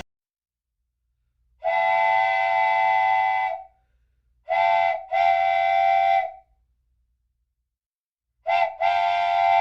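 Train horn sounding three times. First comes one long, steady blast, then a short blast followed by a longer one, then another short-then-long pair. Between the blasts there is dead silence, as for a horn sound effect laid into an edit.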